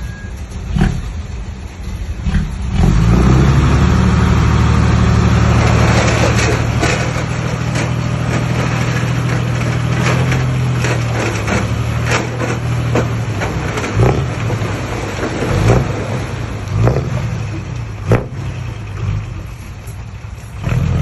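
Heavy diesel engine of earthmoving machinery revving up about three seconds in and running hard for roughly ten seconds before easing off, followed by scattered sharp knocks and clanks.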